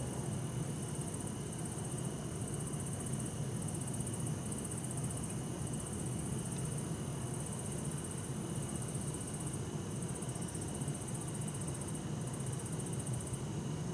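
Crickets chirping at night: high pulsed trills in stretches of about a second with short gaps, over steadier insect trills and a low, steady hum of distant city traffic.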